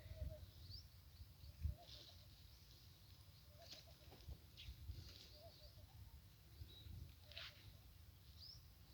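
Near silence: faint outdoor ambience with a few short, high rising chirps of distant birds scattered through it.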